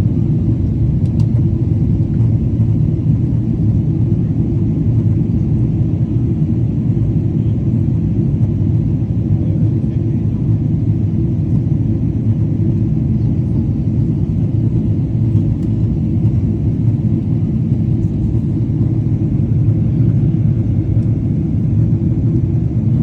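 Boeing 777 twinjet landing: a loud, steady low rumble with no change in pitch or level.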